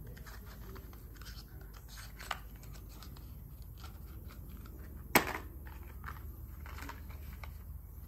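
Hand tools and parts being handled during spark plug work: scattered small clicks and rustles, with one sharp click about five seconds in.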